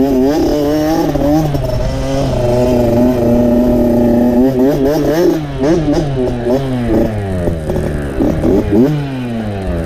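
Dirt bike engine revving under load, its pitch rising and falling with the throttle. It holds steady for a couple of seconds in the middle, then rises and falls quickly several times near the end.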